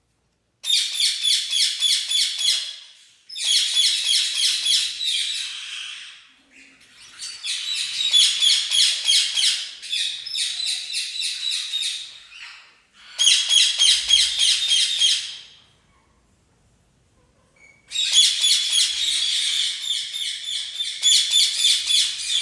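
Red-rumped parrot singing in bouts of rapid, repeated high chirping notes, each bout lasting a few seconds, with a longer pause near the middle.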